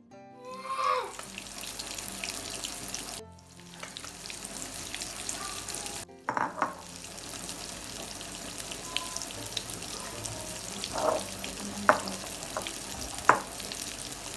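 Battered jackfruit pieces deep-frying in hot oil, sizzling steadily, with a few sharp clicks of a utensil near the end. The sizzle drops out briefly twice.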